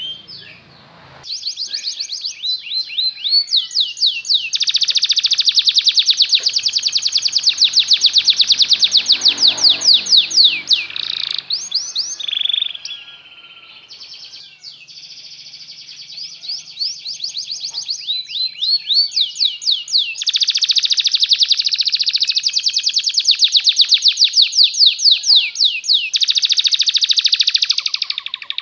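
Belgian canary singing a long song of rapid trills and repeated chirping notes, with loud rolling phrases broken by short quieter pauses.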